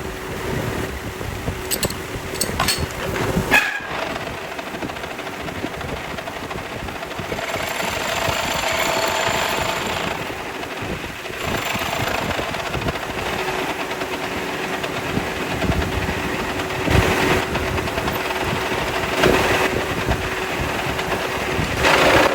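Metalworking workshop machinery running with a steady hum, broken by sharp metal knocks and clanks every few seconds.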